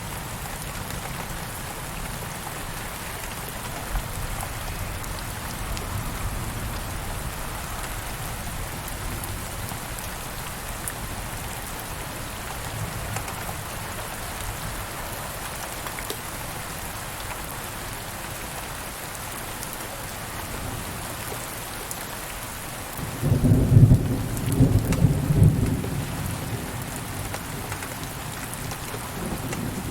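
Steady rain falling. About three-quarters of the way through, a roll of thunder rumbles low for about three seconds, then fades back under the rain.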